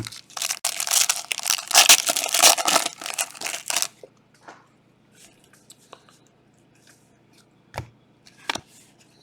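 A trading-card pack wrapper being torn open and crinkled for about three and a half seconds, then two light knocks near the end.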